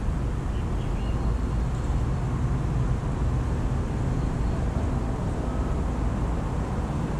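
Steady low rumble of outdoor background noise, with a few faint bird chirps about half a second to a second in.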